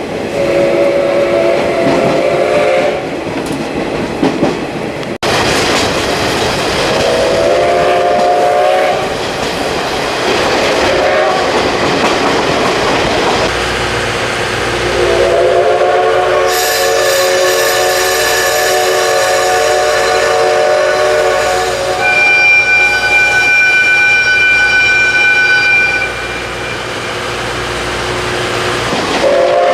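Steam whistle of the SL Ginga's C58 steam locomotive blowing several times: a few short blasts, then one long blast held for over ten seconds in the second half. A higher steady tone joins for a few seconds near the end. Train noise runs underneath.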